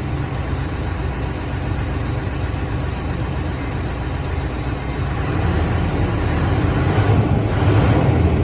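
Scania R500 V8 diesel truck engine running, with a steady low rumble that grows louder toward the end.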